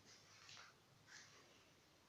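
Near silence: room tone with two faint, short rustles, about half a second and a little over a second in.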